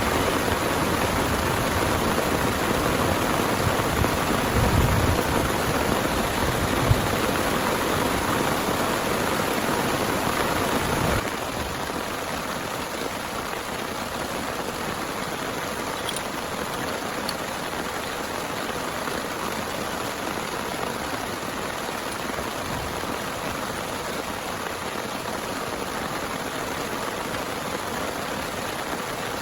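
Heavy rain pouring steadily, with a couple of low thumps in the first few seconds; about eleven seconds in it abruptly drops in level and loses its low rumble, then carries on evenly.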